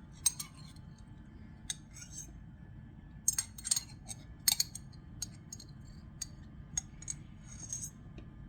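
Metal spoon or fork clinking and tapping against a glass jar and dishes while an ingredient is scooped out, a string of irregular sharp clinks, loudest about three to four and a half seconds in.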